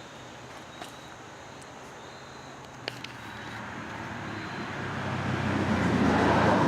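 A vehicle passing on a nearby road: its noise swells over a few seconds to a peak near the end, with a couple of faint clicks earlier on.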